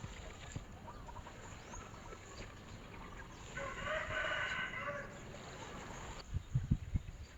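A rooster crows once, a pitched call of nearly two seconds starting about three and a half seconds in, over faint chirping of small birds. A few low thumps follow near the end.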